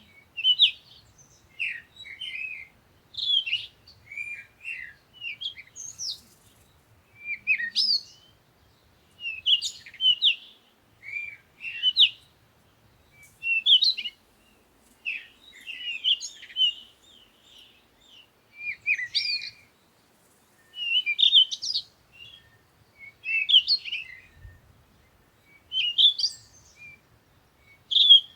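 Songbirds chirping and twittering in short, quick phrases that come every second or two.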